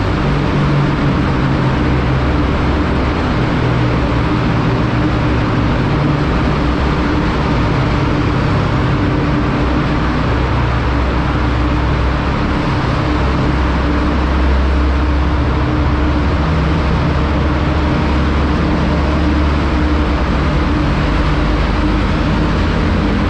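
TVS Apache 200's single-cylinder engine running at a steady cruise, mixed with wind and road noise, inside a road tunnel.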